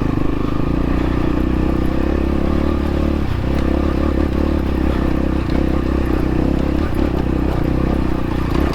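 X-Pro Templar X dirt bike engine running steadily at low revs on a steep, rocky climb, with a few light knocks from the bike over the rocks.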